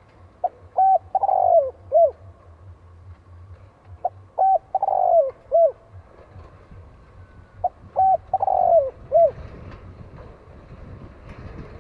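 Spotted dove cooing: three phrases about three and a half seconds apart, each a few short notes, a longer falling coo and a short final note. It is the call played as a decoy to provoke and lure wild doves.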